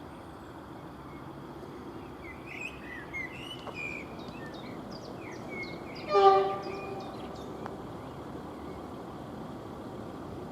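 A train horn gives one short blast about six seconds in, over a steady low rumble, with small birds chirping before it.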